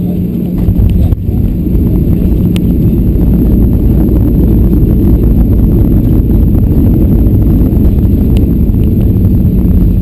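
Cabin noise of a Boeing 737-700 on its landing roll: loud rumble of the wheels on the runway and the CFM56 engines, rising about a second in and then staying loud.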